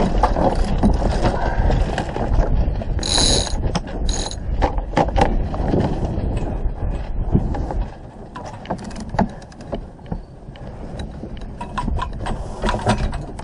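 Clicks and metallic clinks of a sailboat's deck gear, with a bright ringing clink about three seconds in and another just after four. A low wind rumble on the microphone eases off about eight seconds in.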